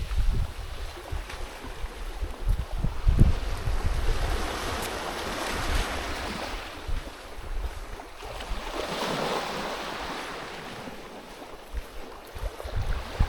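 Wind buffeting the microphone in low rumbling gusts, over a wash of water noise that swells and fades twice.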